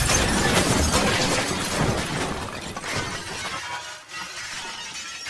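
Car crash with glass shattering: a loud, dense smash and clatter that fades over about four seconds.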